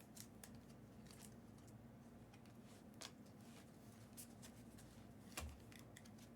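Faint, scattered clicks and rustles of trading cards and packs being handled, with a soft knock about five and a half seconds in.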